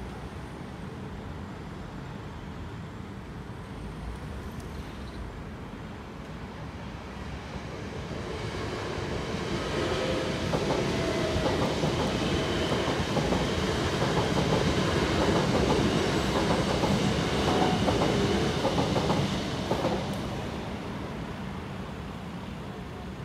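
Southeastern electric multiple-unit passenger train, running on the 750 V third-rail line, passing over the level crossing. It grows louder from about seven seconds in, is loudest for about ten seconds with wheels clattering over rail joints, then fades away.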